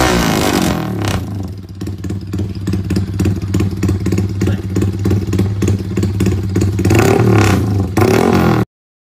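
Motorcycle with an aftermarket racing exhaust, revved, then running at a steady idle with a choppy, pulsing beat. Two more revs rise and fall near the end before the sound cuts off suddenly.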